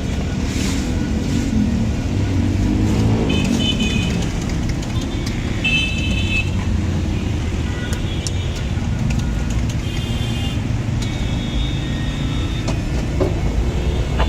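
Road traffic rumbling steadily, with several short, high horn toots.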